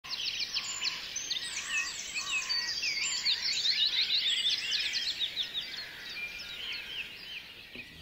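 Birds singing: a busy stream of high chirps, quick sweeping notes and short trills, fading out near the end.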